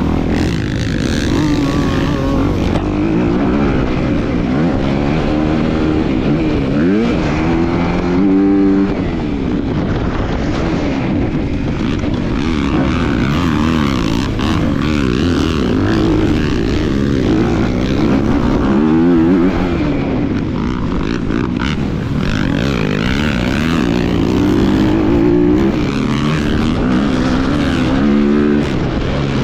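Motocross bike engine in the 250 class, its pitch rising and falling over and over as it revs up and backs off through a lap.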